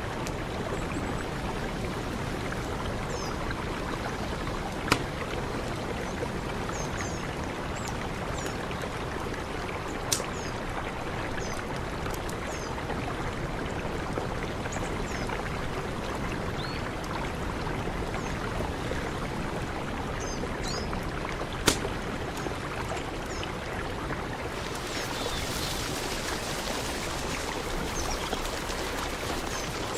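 Mountain river rushing steadily, with a few faint high chirps and three sharp clicks about five, ten and twenty-two seconds in. The rushing grows hissier about twenty-five seconds in.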